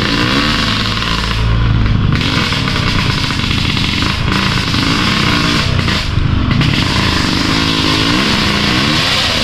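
Dirt bike engine revving up and down over and over as the throttle is worked, its pitch rising and falling every second or so.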